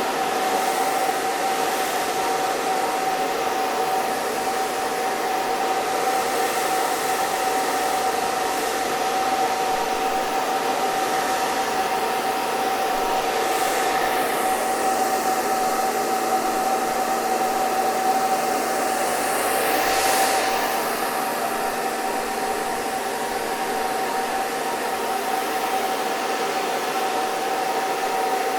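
Hair dryer running steadily: a continuous rush of air over a steady motor whine. The rush swells briefly a couple of times.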